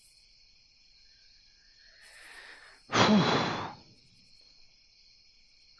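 A man breathes in and lets out a loud, breathy sigh about three seconds in, its voiced pitch falling, over a steady background chorus of night crickets.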